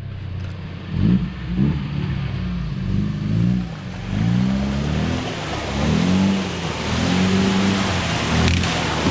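Off-road UAZ's engine revving over and over, its pitch rising and falling repeatedly.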